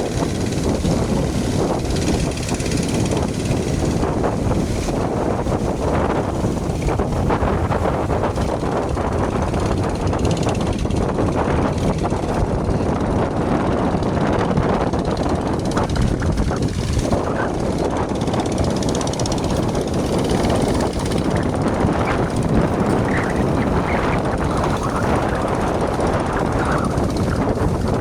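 Motorboat engines running with a steady, loud drone, several fishing boats heading out to sea at once.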